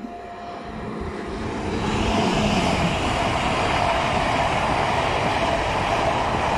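Electric passenger train approaching and passing below at speed. Its noise builds over the first two seconds into a steady rush of wheels and air, with a held whine on top.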